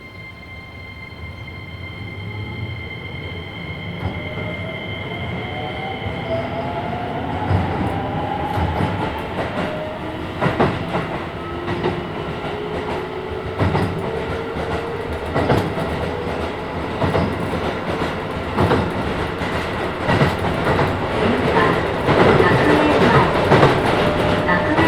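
Keisei 3000-series electric train pulling away from a stop: its Toyo IGBT-VVVF inverter motor sound climbs in pitch as the train accelerates, while wheel knocks over rail joints come faster and the running noise grows louder. Heard from inside the car.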